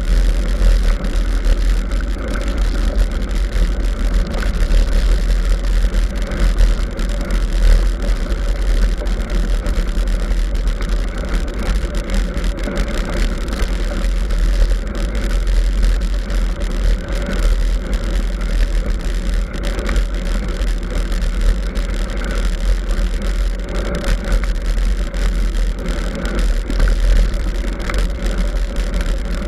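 Steady low rumble of wind and riding noise on the microphone of a camera carried on a mountain bike.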